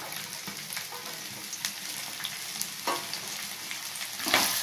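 Chopped okra sizzling steadily in hot oil in a nonstick pan as it is stirred, with scattered light clicks and two louder knocks of the utensil against the pan, one about three seconds in and one near the end.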